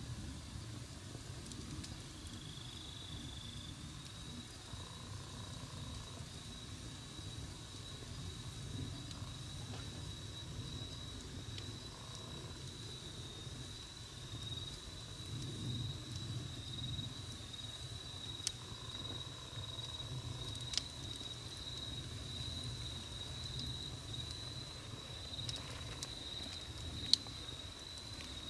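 Wood campfire burning with a low rumble and a few sharp pops, while an insect, cricket-like, trills steadily at a high pitch.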